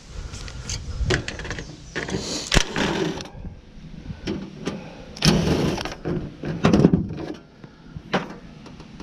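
Hand tools working on scrap metal: irregular clicks and knocks with a few louder scraping stretches, about two, five and seven seconds in.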